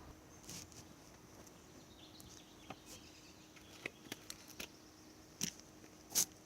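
Thick cornstarch slime being kneaded and pulled by hand, making scattered small wet clicks and pops. They come more often in the second half, and the loudest is near the end.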